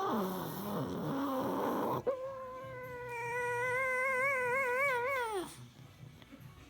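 A sleeping pug vocalising in a dream. First comes a rough sound falling in pitch for about two seconds, then a long whining howl held at one pitch for about three seconds. The howl wavers near the end and then drops away.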